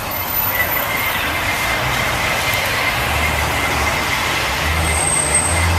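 City traffic noise with a deep low rumble that swells twice, about halfway through and near the end, which the recorder takes for booming sounds in the sky.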